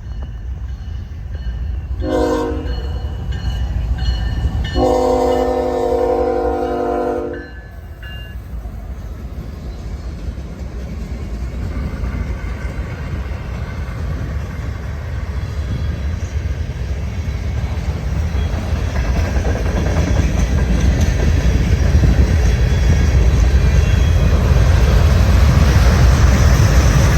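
CSX freight locomotive horn sounding a chord: a short blast, then a longer one of about two and a half seconds. After it, the freight train's rumble and wheel clatter grow steadily louder as it approaches.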